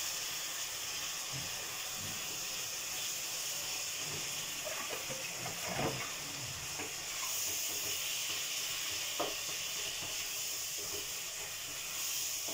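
Mustard and spinach greens sizzling and steaming in a wok on a gas flame just after water is poured in: a steady hiss, with a wooden spatula scraping through the greens and knocking against the pan a couple of times while stirring.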